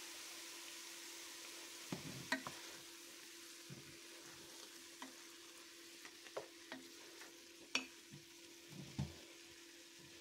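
Diced chicken and onion sizzling faintly in a stainless steel pot over a steady hum, with a wooden spoon stirring from about two seconds in, knocking and scraping against the pot in several sharp clicks.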